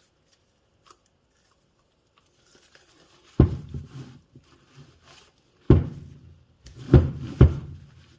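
Knocks and clatter of the reassembled e-bike motor unit and tools handled on a workbench: a few faint ticks, then four sharp knocks, the last two close together, each followed by a short rattle.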